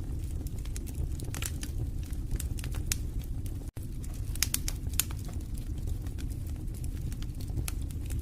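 Wood fire burning in a fireplace: irregular sharp crackles and pops over a steady low rumble of the flames, with a split-second break in the sound a little before the middle.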